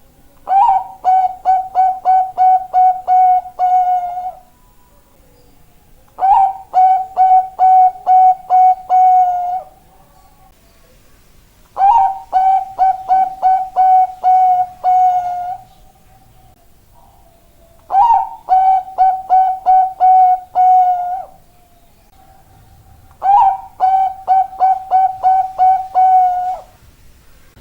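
Bangkok-type zebra dove (perkutut) singing. Five bouts of rapid, evenly paced cooing notes come a few seconds apart, each bout opening on a slightly higher note.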